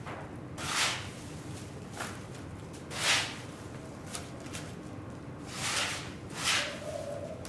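Brush strokes sweeping across a rug: a series of short swishes, about five of them, spaced unevenly a second or two apart.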